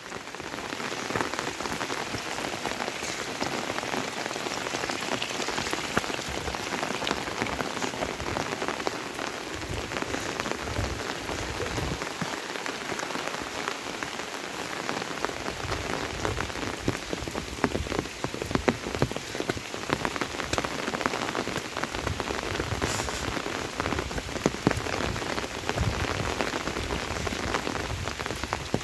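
Steady monsoon rain falling close by, with many separate drop hits heard through the hiss.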